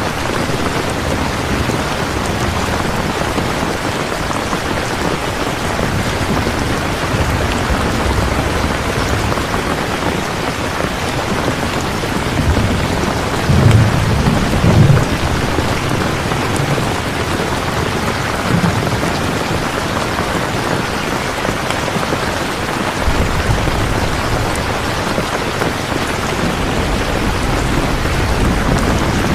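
Steady rain falling hard, with low rolls of thunder that swell to their loudest about halfway through.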